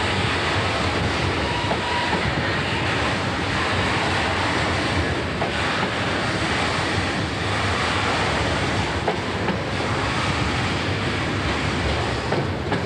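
Freight train wagons rolling past: a steady, dense noise of wheels running on the rails with a few faint clicks from the wheels.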